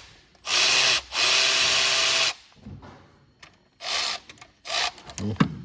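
Cordless power tool running in short bursts as it spins out the timing cover bolts: a short burst, a longer one of about a second, then two brief ones, with a few light knocks near the end.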